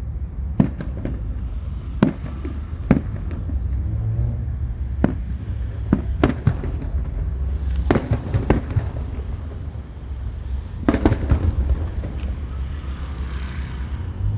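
Aerial fireworks shells bursting: a dozen or so sharp bangs at irregular intervals, with a quick cluster about eleven seconds in, over a steady low rumble.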